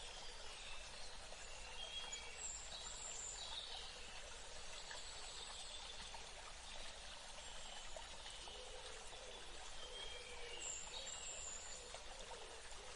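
Nature ambience of a steady rush of running water, with birds chirping over it about two and a half seconds in and again near eleven seconds.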